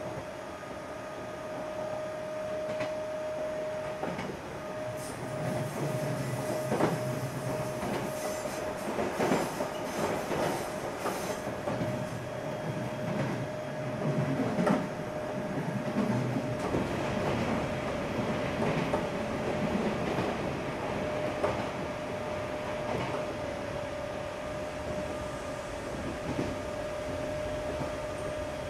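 Odakyu 8000 series field-chopper train car running at speed between stations, heard from inside the car. Wheels clack over the joints of jointed rail, most often in the first half, over steady running noise and a steady high hum.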